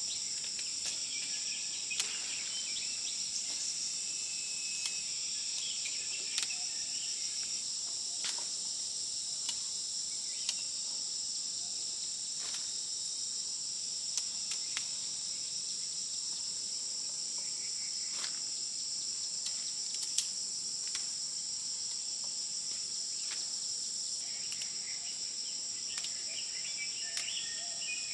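Steady, high-pitched chorus of insects, with two even bands of shrill trilling running throughout. Occasional sharp clicks and a few faint bird chirps sound over it.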